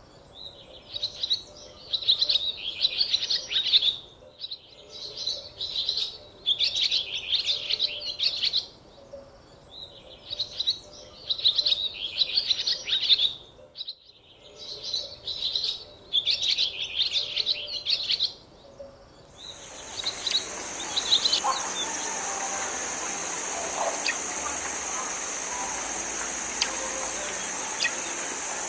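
A songbird singing the same chirping phrase over and over, each phrase about a second and a half long, with short gaps between. About two-thirds of the way in, the song stops abruptly and gives way to a steady high-pitched buzz over a soft hiss.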